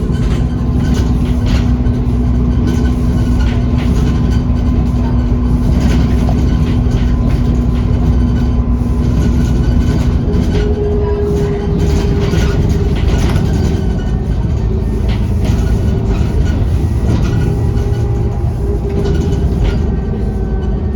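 Interior of a Dennis Trident double-decker bus under way: its engine and driveline run with a deep, steady rumble and a held whine whose pitch steps up about halfway through, over frequent rattles from the body and fittings. The whine is the bus's turbocharger whistle.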